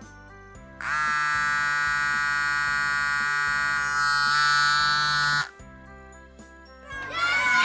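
A loud, steady electronic buzzing tone starts about a second in and holds for about four and a half seconds over soft background music, then cuts off. Near the end, sliding whistle-like sound effects come in and grow louder.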